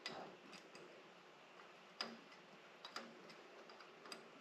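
A few faint, sharp clicks and light metal taps, roughly a second apart, from hand tools being worked on the truck.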